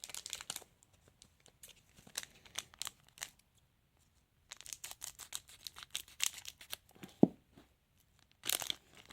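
Foil wrapper of a trading-card pack being torn open and crinkled, in spells of crackling with a short pause in the middle. A single sharp knock comes about two-thirds of the way through and is the loudest sound.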